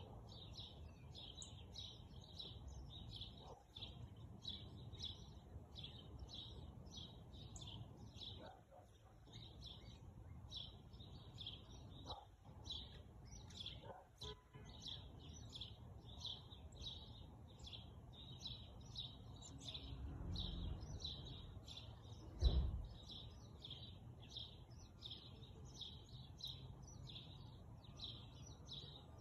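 A bird chirping over and over, short high chirps repeated more than once a second, against faint outdoor background rumble. A single louder low thump about 22 seconds in.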